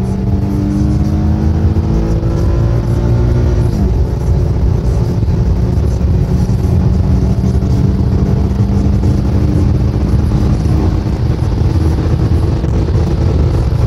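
Infiniti M37S's 3.7-litre V6 pulling hard at full throttle, heard from inside the cabin: the engine note climbs slowly, drops once at an upshift about four seconds in, then climbs again. Wind and road noise run underneath.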